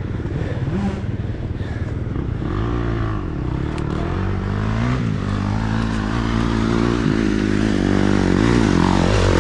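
Dirt bike engine revving hard on a hill climb, its pitch rising and falling over and over as the throttle is worked, getting louder toward the end as the bike comes closer.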